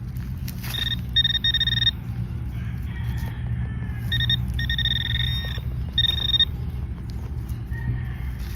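Handheld metal-detecting pinpointer sounding a steady high-pitched tone in several short on-off bursts, each under a second to about a second long, as it is worked through loose dug soil and picks up the target. A low steady rumble runs underneath.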